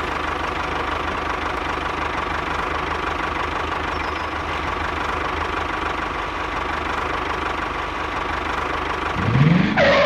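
Small single-cylinder diesel walking-tractor engine running steadily with a fast chugging knock. Near the end a rising, groan-like voice comes in over it.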